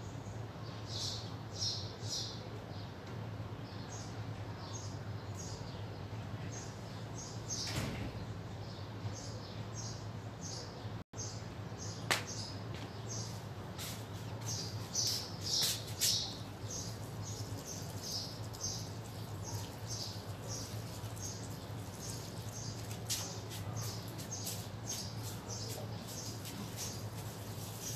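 Small birds chirping in quick, repeated short high notes, over a steady low hum.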